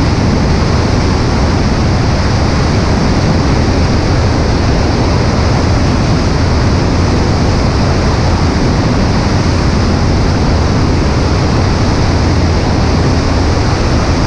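Cessna 140A's engine and propeller running steadily under a heavy rush of wind over the microphone.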